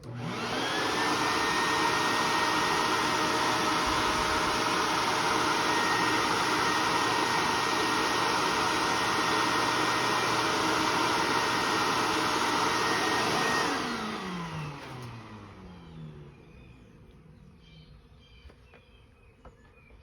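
Electric vacuum motor switched on, spinning up with a rising whine, running steadily for about fourteen seconds, then switched off and winding down with a falling pitch.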